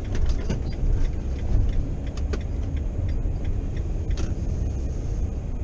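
Steady low road-and-engine rumble of a moving vehicle, with a few light clicks and rattles.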